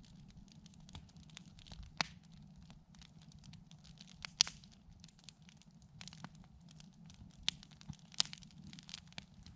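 Wood campfire crackling, with irregular sharp pops and snaps, the loudest about two, four and eight seconds in, over a low steady hum.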